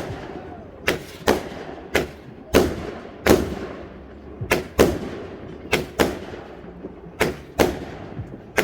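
Fireworks exploding in a rapid, irregular series of sharp bangs, roughly one to two a second, each followed by an echoing tail.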